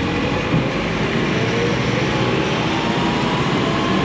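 Steady city traffic noise heard from a moving e-bike, with a faint motor whine that rises slowly in pitch.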